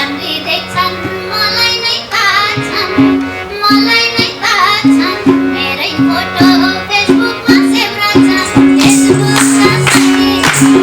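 Live band playing the instrumental opening of a Nepali dohori folk song: an ornamented melody over a steady drum beat. Brighter percussion joins about nine seconds in.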